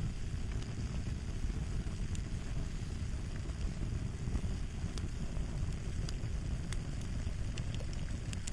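Crackling fire: a steady low rumble with small sharp pops scattered irregularly throughout.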